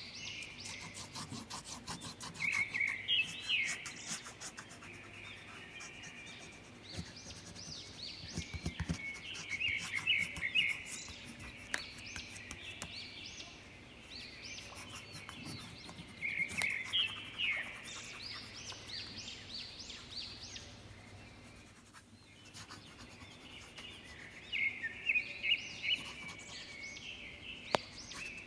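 A songbird singing repeated phrases of quick, rising chirps, a burst roughly every seven seconds, over the scratchy rubbing of a crayon being stroked across paper.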